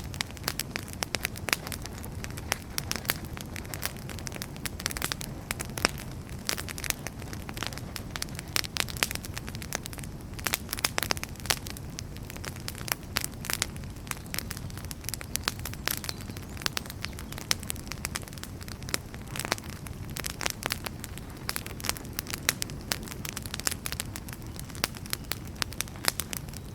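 Wood fire burning, with dense, irregular crackles and sharp pops over a steady low rumble of flames.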